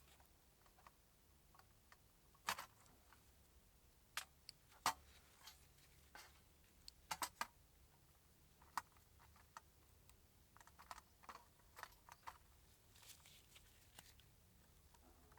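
Scattered light clicks and taps of small parts being handled, a few louder ones in a quick cluster, over a quiet room.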